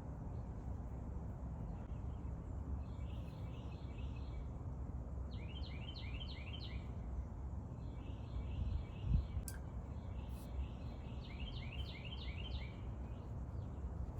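Songbirds chirping: groups of short repeated notes alternating with quick series of downslurred notes, over a steady low rumble. A soft thump about nine seconds in.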